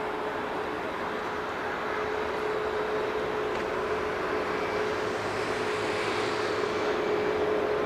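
Boeing 737 MAX 8 jet engines running with a steady rushing noise and a steady hum-like tone, the hiss growing a little louder about five seconds in.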